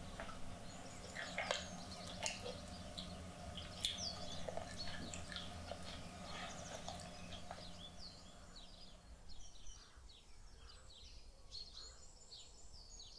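Birds chirping, many short high calls and quick pitch sweeps, over a low steady hum that fades out about two-thirds of the way through.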